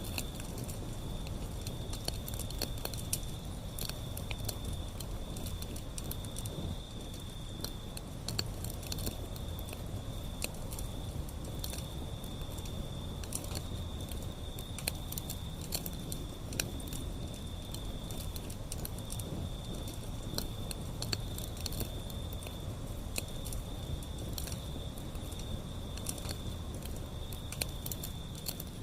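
Wood fire burning, crackling and popping irregularly over a low, steady rumble of flame.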